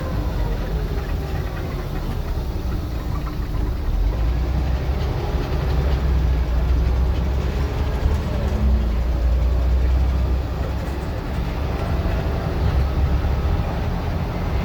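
Scania N94UD OmniDecka double-decker bus engine running on the move: a deep rumble that grows louder about four seconds in, then eases off near the end.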